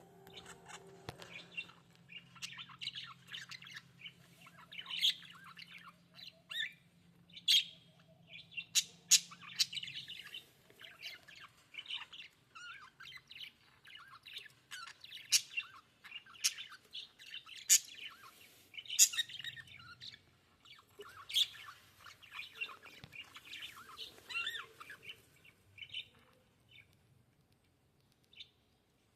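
Budgerigars chirping and chattering in quick, high calls, with sharp louder squawks now and then. The calls thin out and stop near the end.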